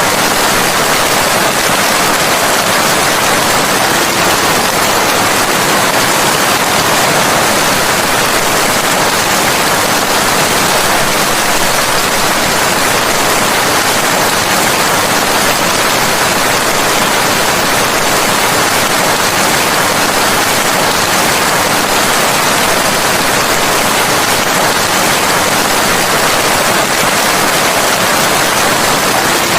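Steady rain falling, a dense, even hiss that does not change, with no separate drops, thunder or other sounds standing out.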